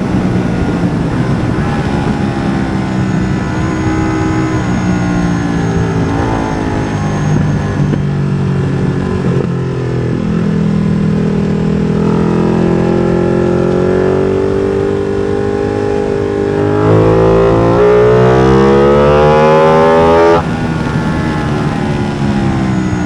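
Ducati Streetfighter V2's 955 cc L-twin, exhaust open with no dB killer, revving up and down through the gears: pitch climbs and drops repeatedly. The loudest pull, a long rising full-throttle run about 17 seconds in, cuts off sharply about three seconds later.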